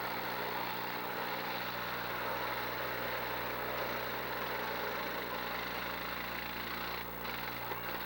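Engines of demolition derby cars running together in a steady mixed din, with no crashes standing out.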